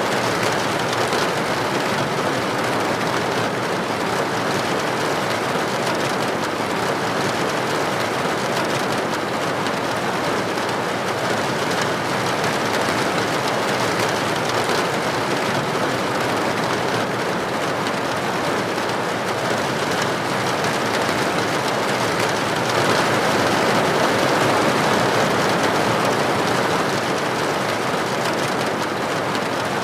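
Steady rain falling, an even hiss and patter that swells slightly a little after two-thirds of the way through.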